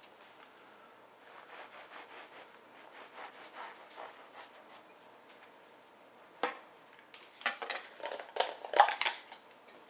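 A knife sawing through soft hamburger buns with faint repeated rasping strokes, followed by a sharp click and then several louder knocks over the last few seconds.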